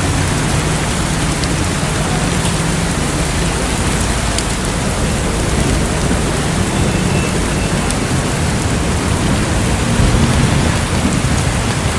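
Rain falling steadily and loudly, an even hiss with a few scattered sharp drop ticks.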